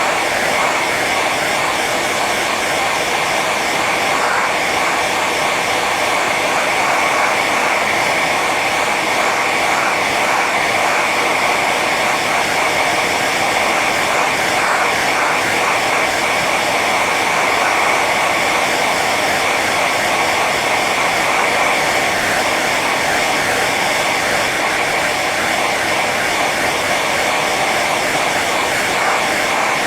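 Hair dryer running steadily on its high setting: an even blowing rush of air with a steady whine from the motor and fan.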